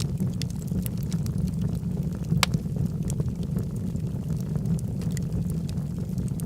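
Log fire burning in a fireplace: a steady low rumble of the flames with scattered crackles and small pops, one sharper pop about two and a half seconds in.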